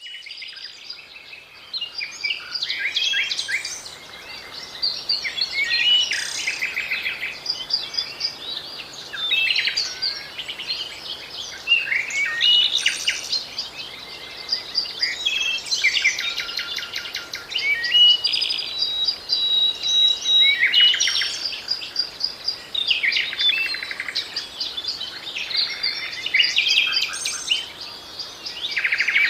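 Songbirds singing continuously, several overlapping chirps, rapid trills and short whistles.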